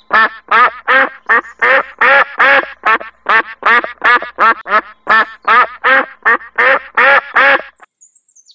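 Duck quacking: a long, rapid run of about twenty loud quacks, roughly three a second, that stops a little before the end.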